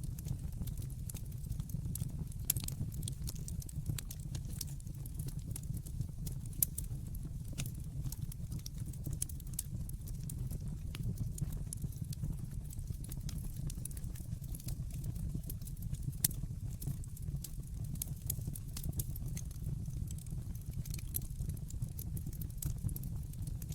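Wood fire burning in a fireplace: a steady low rumble with irregular sharp crackles and pops, a few of them louder, about 2.5, 6.5 and 16 seconds in.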